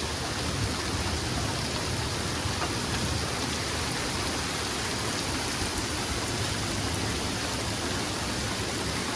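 Steady rain falling in a thunderstorm: an even, unbroken hiss.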